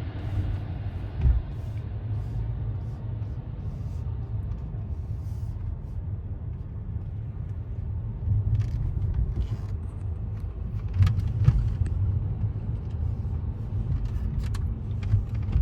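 Low steady rumble of a car, with a few light clicks and knocks.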